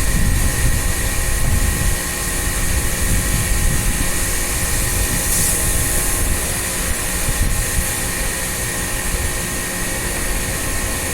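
A machine running steadily, with a continuous hiss and a few faint steady tones held throughout.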